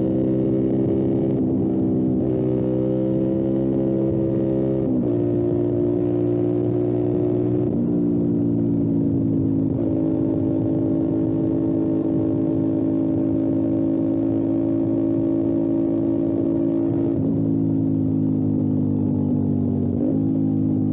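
Motorcycle engine pulling under way at fairly steady revs, with sudden pitch changes about every two to seven seconds as the rider shifts gear.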